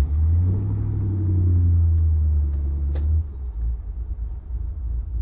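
Chevrolet 327 V8 (300 hp, four-barrel carburettor) pulling away under load through the Muncie four-speed, its note climbing for about three seconds. Then a sharp click and a sudden drop in level as the throttle comes off for the shift, and it runs on more quietly.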